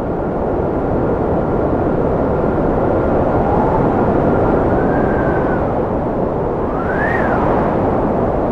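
Strong cold wind blowing, a steady rush with whistling tones that rise and fall slowly, one climbing to a higher peak and falling away about seven seconds in.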